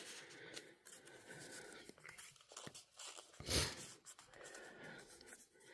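Faint rustling and light scraping of paper and cardstock as small tags are handled and tucked into a paper pocket, with one louder brief noise about three and a half seconds in.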